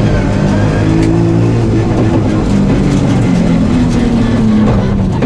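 Nissan 350Z rally car's V6 engine running hard under load, heard from inside the cabin, its note rising and falling in pitch over steady road and tyre noise.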